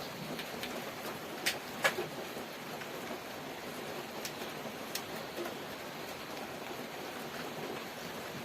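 Steady background hiss with a couple of sharp clicks about a second and a half and two seconds in, and a few fainter ticks later.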